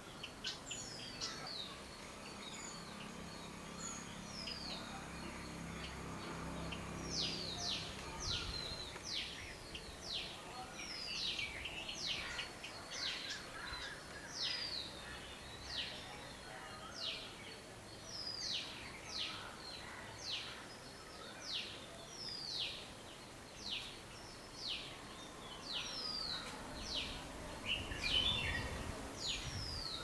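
A bird calling a long, regular series of short, sharp, high chirps, each dropping in pitch, a little more than one a second, starting a few seconds in after some scattered calls.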